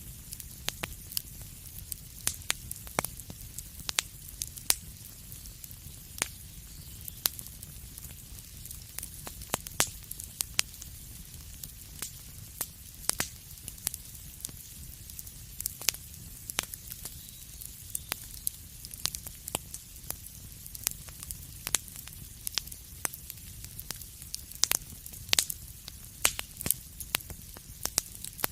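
Wood fire burning in a fireplace, crackling with many sharp, irregular pops over a low steady rumble and a soft hiss.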